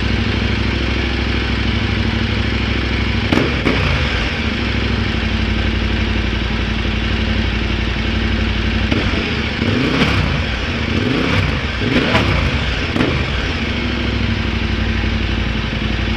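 KTM 1190 R's V-twin engine idling through an Akrapovič exhaust, with short throttle blips: one or two about three and a half seconds in, then several quick revs rising and falling a little past the middle.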